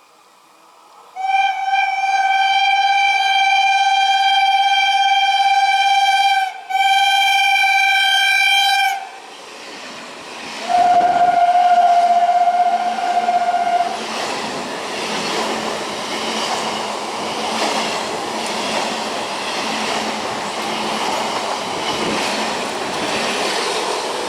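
Train horn blowing a long steady blast and a shorter second one, then a third, slightly lower blast, followed by the rush and wheel clatter of a train passing at speed.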